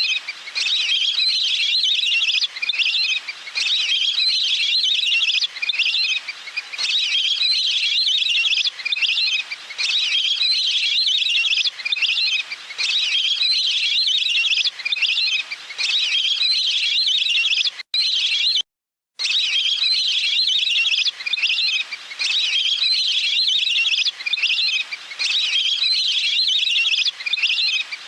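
Looped lure recording of waterfowl calls: high, rapid chattering phrases repeating about every second and a half, broken once by a brief silence about two-thirds of the way through.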